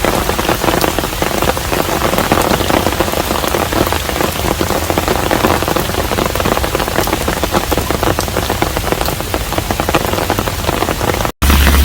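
Steady rain falling on a hanok, a traditional Korean house: a dense, even patter of drops. Near the end it cuts off abruptly for a split second, and a different sound with a deep low hum starts.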